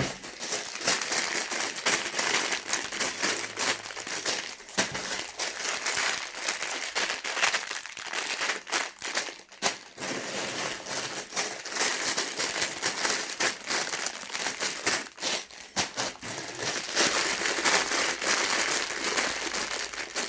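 Plastic bags of LEGO pieces crinkling continuously as they are handled.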